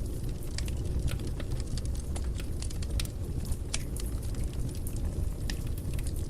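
Wood fire burning in a fireplace: a steady low rumble of flames with irregular sharp crackles and pops from the burning wood, several a second.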